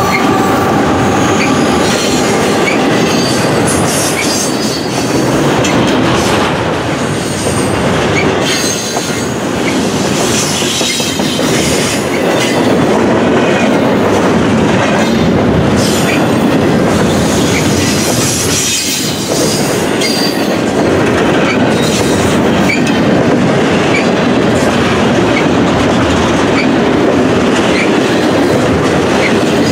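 Double-stack intermodal freight cars rolling past at track speed: a loud, steady rumble of steel wheels on rail, with evenly spaced clicks of wheels over the rail joints and some high wheel squeal at times.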